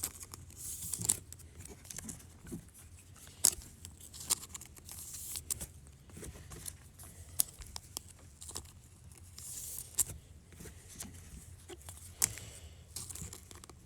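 Trading cards and foil card-pack wrappers being handled on a table: scattered light clicks and taps with a few short crinkles of wrapper plastic.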